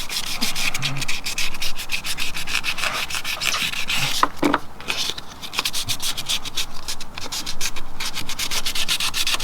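Wet-and-dry paper on a small hand sanding block rubbing over cured gelcoat filler on a fibreglass boat hull, in quick short back-and-forth strokes, several a second, with a brief pause a little past halfway.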